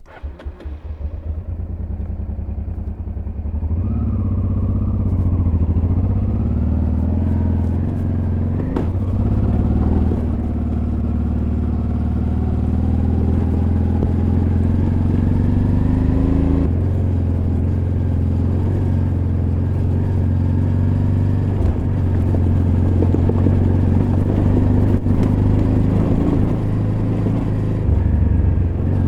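Honda Transalp XL600V V-twin engine running under way on a dirt road, its pitch rising and falling with the throttle, with a sudden drop in pitch about two-thirds of the way through, like a gear change. Occasional short clicks and clatter sit under the engine.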